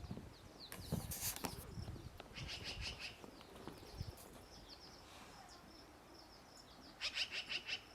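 Small birds chirping with short, repeated high calls, and a hiker's footsteps on the trail coming in quick runs of steps, the loudest run near the end.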